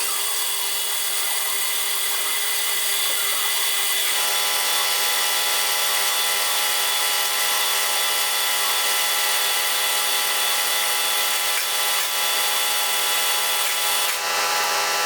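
Warco Super Mini Lathe's motor running steadily, with a whine of several even tones, while metal is turned. About four seconds in, the tone shifts and a lower hum joins it.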